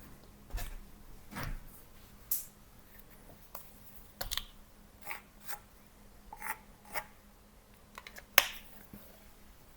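A series of irregular light clicks and knocks, a dozen or so, with the sharpest near the end, over a faint steady hum.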